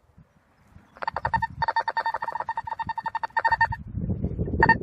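Golden Mask Thracian metal detector's audio tone chattering: a rapid string of short beeps at one steady pitch, about a second in, lasting under three seconds. It is the detector sounding off, which gets called "so noisy". Rough rustling and handling noise follows, with one more short beep near the end.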